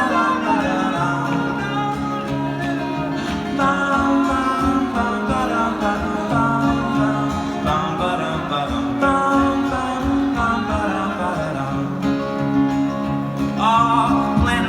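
Live band playing an instrumental passage between verses: acoustic guitar and other plucked strings over a bass line that moves in steps.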